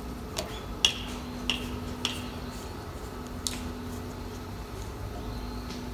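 A few light clinks and taps of cooking utensils and cookware, each with a short ringing, spaced about half a second apart in the first few seconds.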